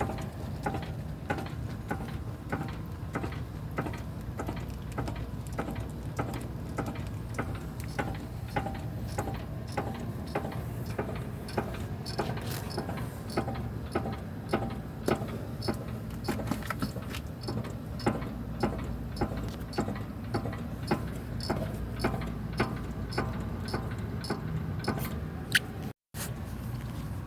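Car engine idling with a steady low hum and an even ticking about twice a second. The sound cuts out for a moment near the end.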